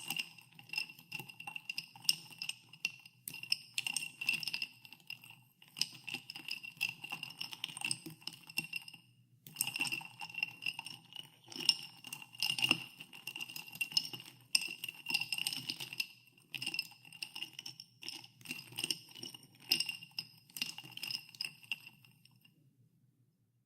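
Ice cubes being stirred in a glass of carbonated water, clinking continuously against the glass, which rings with each knock. The stirring pauses briefly twice and stops near the end.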